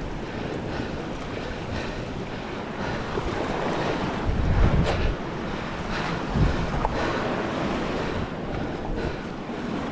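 Sea waves washing in on the shore, with wind buffeting the microphone; the surge swells loudest around the middle.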